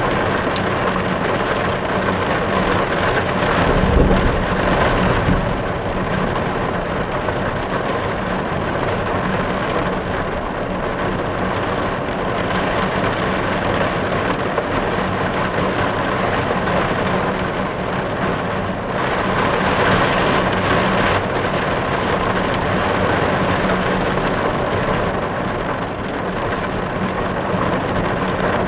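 Rain falling on a car, heard from inside the car: a steady, even rush of drops on the roof and glass, with a brief low rumble about four seconds in.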